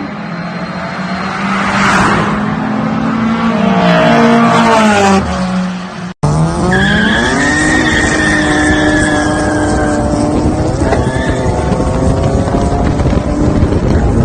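Race-car engines at full throttle, the pitch climbing and then falling. The sound breaks off abruptly about six seconds in and resumes with another car accelerating hard, its engine note rising and then holding high, with a thin high whine over it.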